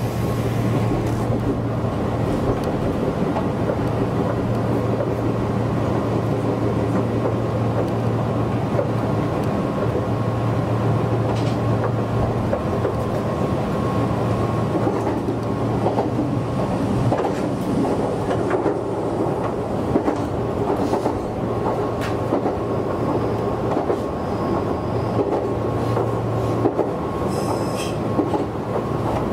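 Meitetsu 6800-series electric train running at speed, heard from inside at the front: a steady rumble of wheels on rail with a constant whine and occasional clicks.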